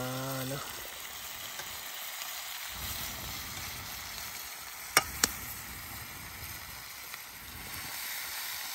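Food sizzling in hot oil in a pan, a steady hiss. Near the middle come two sharp clicks about a quarter second apart.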